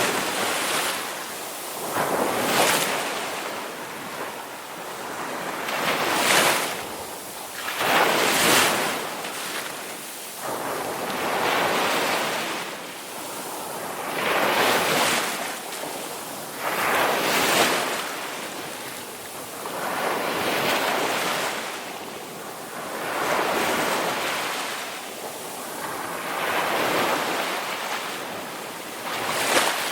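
Ocean waves rolling in and washing out, a wave swelling and falling away about every three seconds.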